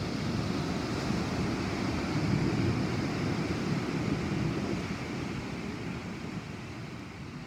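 Rumbling thunder from a night storm, low and steady at first, then slowly dying away over the last few seconds.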